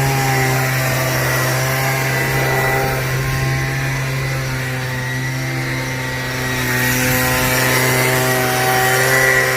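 A motor-driven power tool running steadily: a strong, constant low hum with higher tones that waver slightly in pitch.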